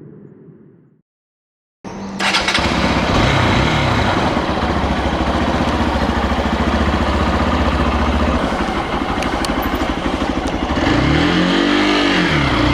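Hero XPulse 200 motorcycle's single-cylinder engine running while being ridden, cutting in abruptly after a second of silence near the start. Its pitch swings up and down a couple of times near the end.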